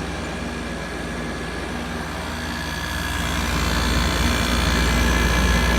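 Hampton Bay 12,000 BTU window air conditioner running: a steady low hum from the compressor and condenser fan with a faint high whine. It grows louder about halfway through.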